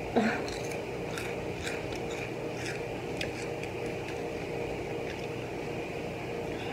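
Hot Cheetos being chewed: faint, irregular crunches over the first few seconds, after a brief vocal sound right at the start. A steady background hum runs underneath.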